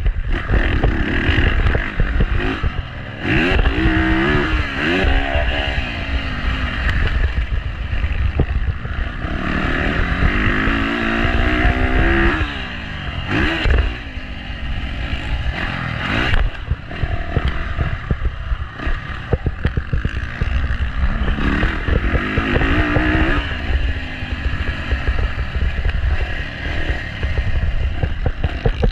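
Dirt bike engine revving up and falling back again and again as it is ridden around a motocross track, over a steady rush of wind on the microphone.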